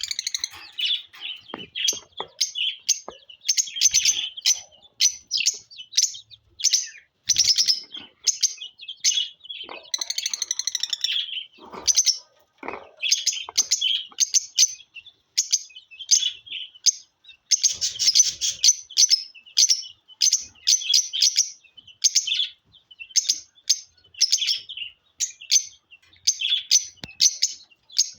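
Lovebirds chirping in short, shrill, rapidly repeated calls that run on almost without pause.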